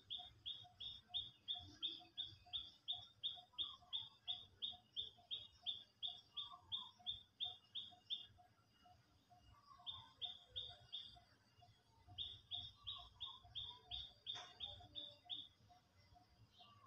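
A bird calling in a fast, even run of short, high chirps, about three a second, that breaks off about halfway through and starts up again twice. A softer, lower note repeats steadily beneath it.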